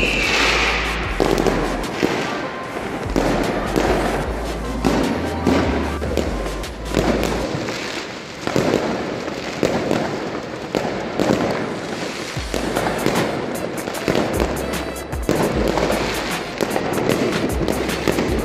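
Many fireworks going off at once: a dense, continuous string of bangs and crackles from rockets bursting overhead, with music playing underneath.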